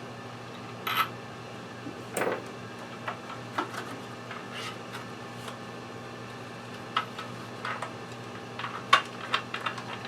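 Scattered light clicks and knocks of plastic and metal parts being handled while a string trimmer is assembled, the sharpest near the end, over a steady low hum.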